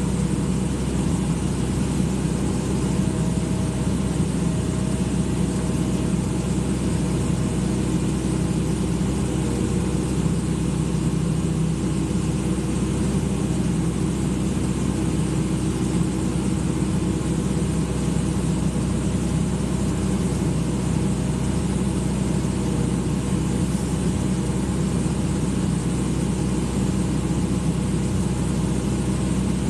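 Hydraulic excavator's diesel engine running steadily, with no change in speed.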